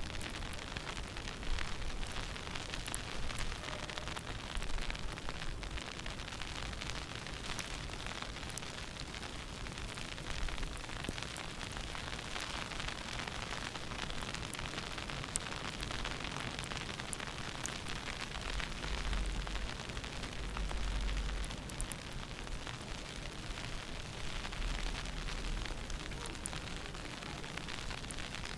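Snowstorm wind buffeting the microphone in low rumbling gusts, strongest about two-thirds of the way through, over a steady hiss with scattered faint crackles.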